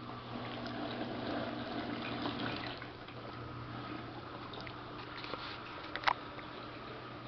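Samsung VRT WF448 washing machine running with water flowing, over a steady low hum. A sharp click comes about six seconds in.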